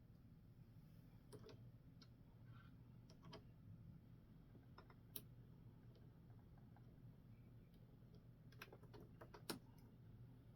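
Faint, scattered light clicks and taps from small parts being handled, with a short run of them about nine seconds in, over a low steady room hum.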